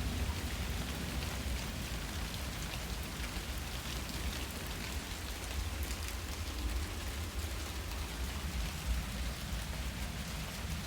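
Steady rain falling, with individual drops ticking on nearby surfaces over a constant hiss, and a steady low rumble underneath.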